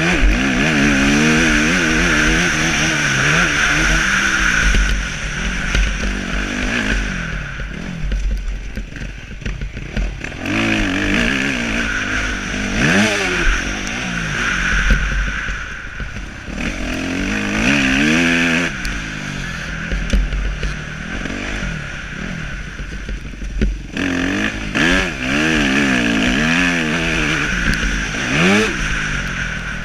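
Motocross motorcycle engines revving hard, their pitch repeatedly climbing and dropping through the gears in several loud bouts.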